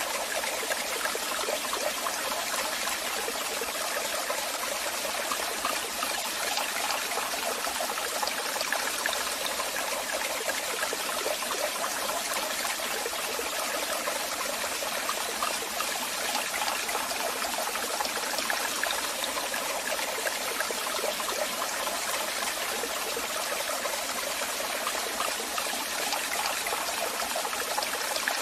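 Waterfall: water falling and splashing in a steady, unbroken rush, bright and hissy with little deep rumble.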